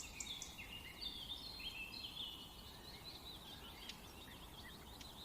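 Songbirds chirping and singing: a busy run of short, quick high notes, thinning to fainter, quicker notes in the second half, over a faint outdoor hiss.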